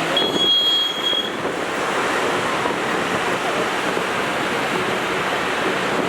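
Fast mountain river rushing steadily. A brief thin, high whistle-like tone sounds over it in the first second.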